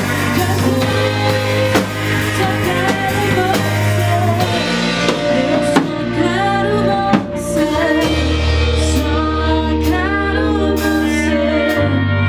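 A live worship band playing a song, with drums, guitar and bass under a singing voice.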